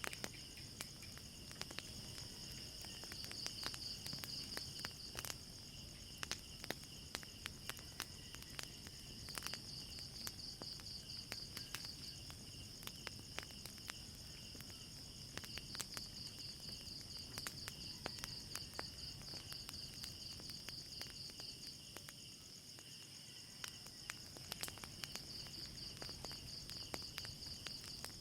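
A night chorus of crickets trilling steadily in pulsing trains, with many scattered sharp crackles and pops from a fire.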